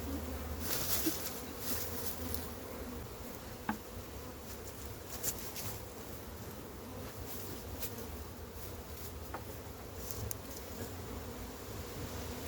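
A mass of honey bees buzzing in a steady low drone around an opened colony, with a few brief clicks and rustles over it.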